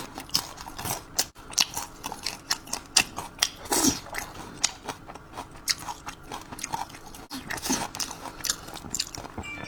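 Close-up chewing of crispy fried pork (guo bao rou): irregular crunches and mouth clicks, with two brief pitched murmurs about 4 and 8 seconds in.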